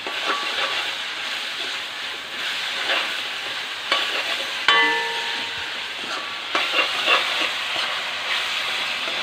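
Sliced onions frying in hot coconut oil with a steady sizzle while a spatula stirs and scrapes them around the pan. There are several short scrapes, and one brief ringing clink about halfway through.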